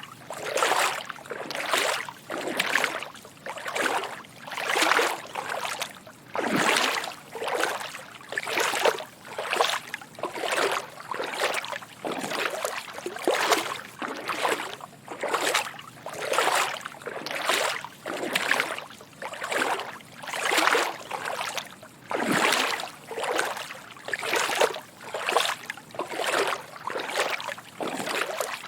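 Footsteps wading through shallow water: a steady series of soft sloshing splashes, roughly two steps a second.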